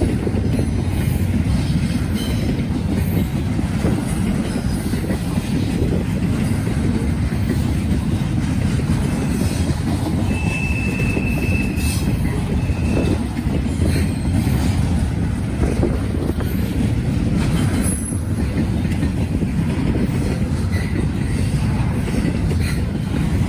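Norfolk Southern freight train rolling past, its cars' wheels rumbling and clicking over the rail joints in a steady noise. A short high wheel squeal comes about halfway through.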